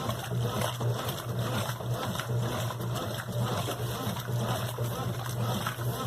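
Brastemp BWQ 24 washing machine running, with water sloshing and splashing over a steady low motor hum.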